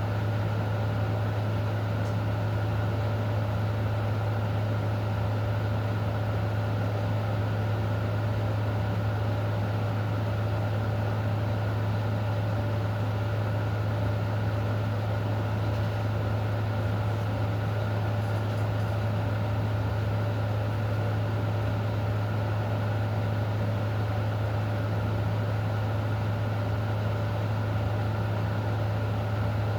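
Steady, unchanging mechanical hum from a running machine: a strong low drone with fainter steady tones above it over an even hiss.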